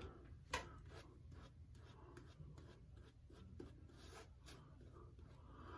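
Safety razor scraping through 36 hours of stubble in faint, short strokes one after another, with a louder stroke about half a second in.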